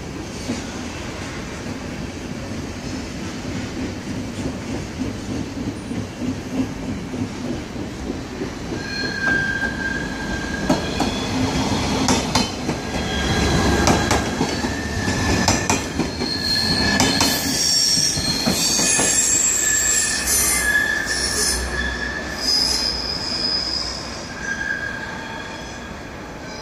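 Stadler GTW regional trains running on the track with a rumble and clicking from the wheels. High squealing tones from the wheels come and go through the middle, loudest as a unit passes close by, then ease near the end.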